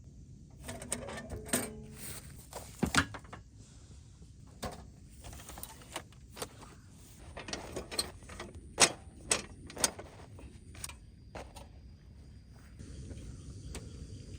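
Scattered clicks and knocks of objects being handled, with a brief squeak about a second in. Faint steady high tones sit underneath in the second half.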